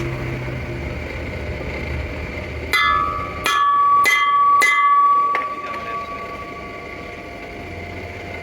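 Hammer blows on steel in a metalworking shop: about five sharp metallic strikes roughly half a second apart from about three seconds in, each ringing on with a high tone. Before them a steady low machine hum runs with a thin high ringing tone.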